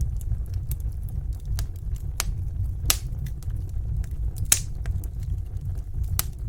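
Wood fire in a fireplace crackling: irregular sharp pops and snaps over a steady low rumble of the flames, the loudest pop about four and a half seconds in.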